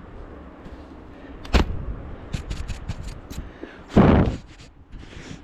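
Deep snow crunching and scraping right against the camera's microphones as the camera is pushed into it: a sharp thud about a second and a half in, a run of small crackles, then a louder crunch about four seconds in.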